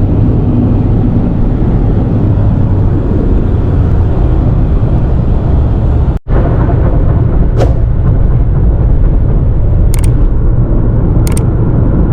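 Steady road rumble of a vehicle travelling on a highway, with the noise heaviest in the low range. It drops out for a moment about six seconds in, and a couple of faint clicks come near the end.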